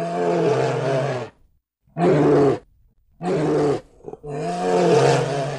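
Bear growling in four deep, pitched roars: the first lasts over a second, and three shorter ones follow with brief pauses between them.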